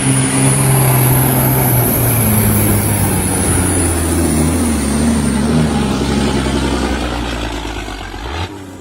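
Diesel truck engine at full throttle under heavy load, pulling a sled down a truck-pull track, with a high whine that slowly falls in pitch. The truck is in too low a gear and runs out of RPM partway down, so the engine is not loading up. The engine drops off sharply near the end.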